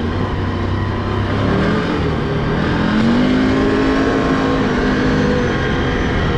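Can-Am ATV engine running under throttle, revving up about a second and a half in, holding, then easing back down near the end.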